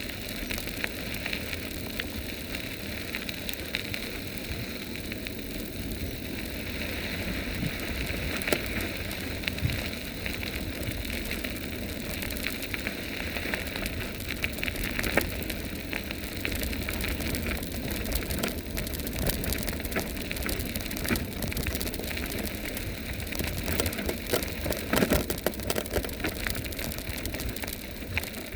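Electric bike's knobby-less tyres rolling over a sandy, gravelly dirt road: a continuous crunching and crackling, with scattered clicks and a few louder knocks as the bike jolts over the ground.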